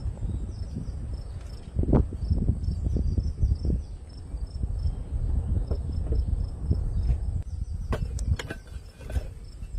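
Crickets chirping in a steady repeated pattern over a loud low rumble, with a few sharp clicks and knocks, one about two seconds in and several near the end.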